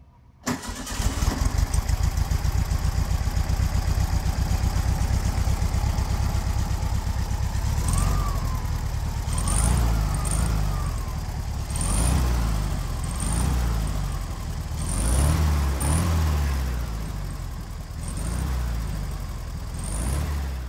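A car engine starts abruptly, idles with a fast, even beat, and from about eight seconds in is revved repeatedly in short blips that rise and fall.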